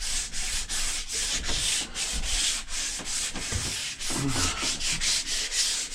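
Sandpaper rubbed back and forth by hand on a wooden axe handle, in quick, even scratching strokes, about four or five a second.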